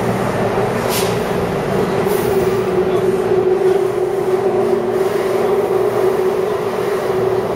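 Taipei Metro 301-series subway train running between stations: a steady running drone with a held mid-pitched tone, and a brief high hiss about a second in.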